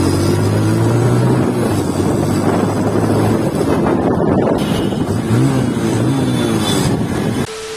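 Motorcycle riding under way, its engine note mixed with heavy wind rushing over the microphone. The steady engine tone fades about three seconds in, and short rises and falls in engine pitch come about five to six seconds in.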